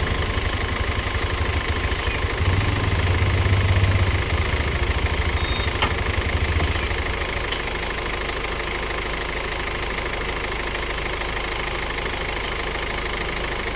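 Ford Aspire's engine idling with the AC switched on, a steady low rumble that is heavier for the first seven seconds or so and then eases a little, with one sharp click about six seconds in. The AC compressor is not engaging, which the mechanic puts down to a blown fuse.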